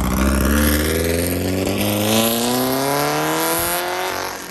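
Car engine accelerating as the car pulls away, its exhaust note climbing steadily in pitch for several seconds. The deep rumble at the start gives way to the rising note, which fades near the end.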